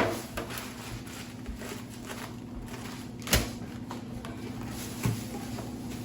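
Two knocks while groceries are being put away in a kitchen, a sharp one about three seconds in and a lighter one near the end, over a steady low hum.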